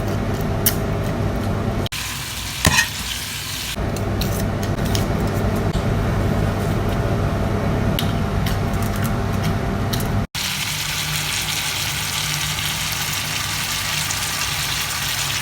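Food sizzling in a frying pan while it is stirred, with clicks and scrapes from the utensil. The sound cuts off abruptly about 2, 4 and 10 seconds in, and after the last cut the sizzle is a steadier, brighter hiss.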